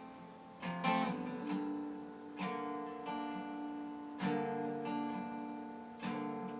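Acoustic guitar strumming slow chords, a strum about every two seconds, each left to ring out.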